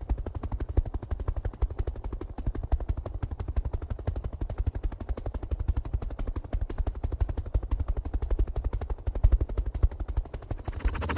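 Rapid, steady mechanical rattle of many clicks a second from a small motor-driven model machine, changing character near the end.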